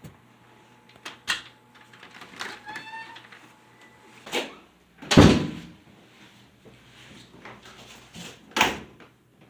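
Scattered household knocks and bangs, like doors or cupboards being opened and shut, four in all with the loudest and deepest about five seconds in. A brief squeak comes between the first two.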